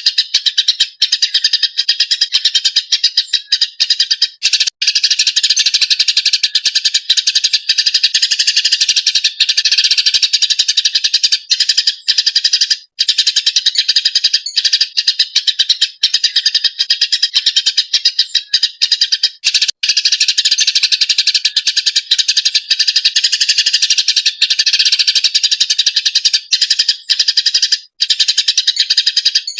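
Eurasian tree sparrows chirping in a fast, agitated, unbroken chatter of short chirps.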